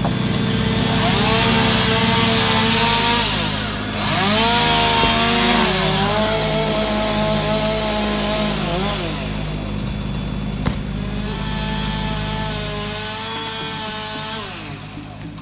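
Chainsaw cutting oak limbs: its engine note sags under load and climbs again several times as it works through the wood. A second engine runs steadily underneath.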